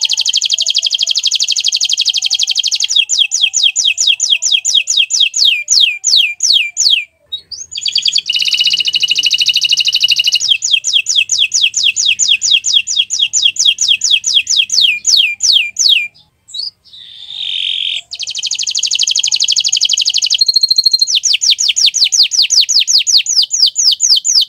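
Domestic canary singing at full voice in long, loud trills of rapidly repeated high notes. There are three long song phrases, with short breaks about seven seconds in and again around sixteen seconds.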